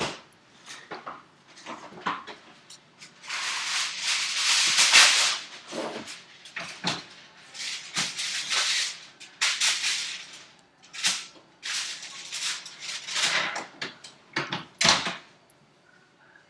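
Irregular rustling and rattling handling noises, in bursts of up to a couple of seconds, with a few sharp knocks between them.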